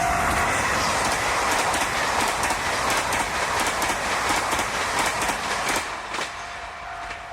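Freight train rolling past on the Tokachi Railway sugar-factory siding, its wheels clattering over the rail joints with many sharp clicks. The clatter fades about six seconds in, and a steady ringing tone, likely a level-crossing bell, is heard again.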